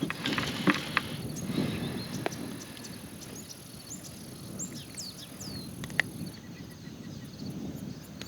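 Wind rumbling on the microphone, with a run of small clicks and taps in the first couple of seconds and one sharp click about six seconds in, like gear being handled in the kayak. Several short falling bird chirps come just before the last click.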